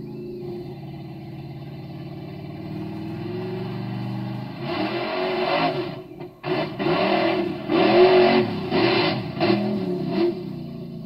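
An engine idling with a steady low drone, then revved in several loud bursts from about halfway through, the pitch rising and falling with each rev.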